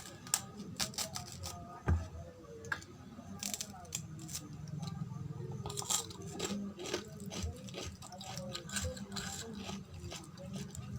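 Close-miked eating sounds: chewing with many short wet clicks and smacks of the mouth.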